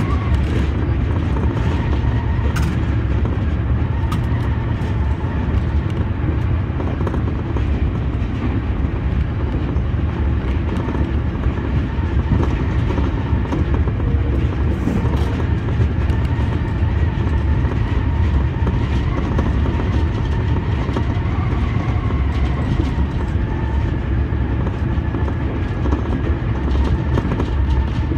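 Senboku Rapid Railway 7020 series electric train running at steady speed, heard from inside the leading car: a constant low rumble of wheels on rail with a faint, slightly wavering whine from the traction motors. Scattered light clicks come from the track.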